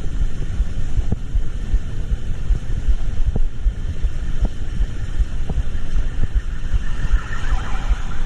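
Steady low rumble of a vehicle on the move, with a soft tick about once a second and a brief wavering sound near the end.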